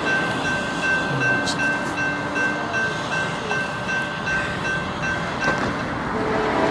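Freight train cars rolling past on the rails, a steady rumble and rush of noise, with a high tone pulsing on and off about twice a second.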